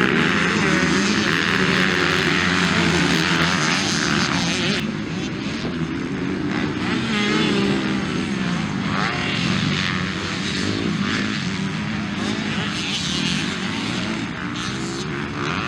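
Motocross bike engines running at race revs, the pitch climbing and dropping as the bikes accelerate and shift. Louder and brighter in the first five seconds.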